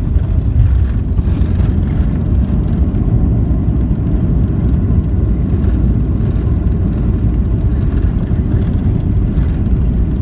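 Steady low rumble inside the cabin of a Boeing 737-800 as it rolls on the ground after landing.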